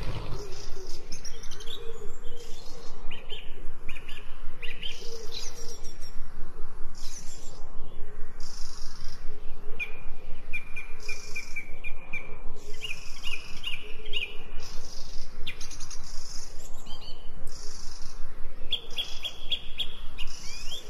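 Small birds chirping continually, with quick runs of repeated notes in short trills, over a faint steady hum.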